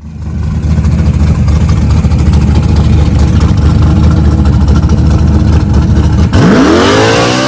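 408 V8 in a Fox-body Mustang drag car running loud and steady, then revving up sharply near the end with a fast climb in pitch.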